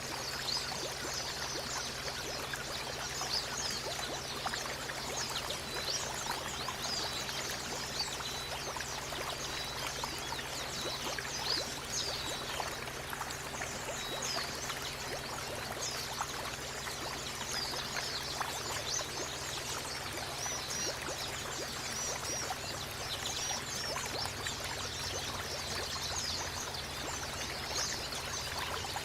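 Steady running, trickling water with many short, high chirps from small songbirds scattered throughout, a therapy recording of white-eyes (pleci) meant to stimulate a caged bird to sing.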